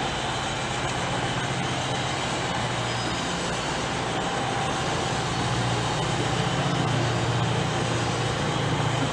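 HO scale model train running on the layout: a steady mechanical hum with a low drone that grows louder about halfway through.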